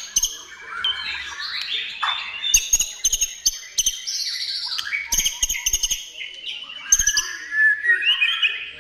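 White-rumped shama singing a fast, varied song of whistled phrases, rising and falling glides and sharp clicking notes, with hardly a pause.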